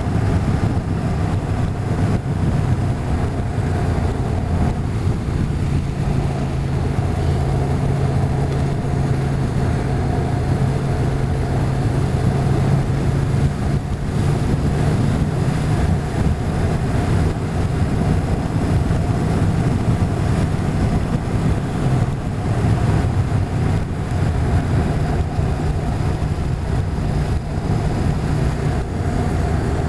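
Motorcycle engine running steadily under way, a constant low engine note with wind noise rushing over the microphone.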